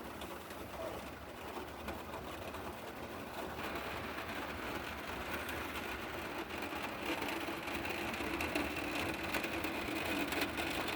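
Rain falling on and around a van, heard from inside, as a steady hiss with fine drips. A steady hum comes in about midway and grows slowly louder.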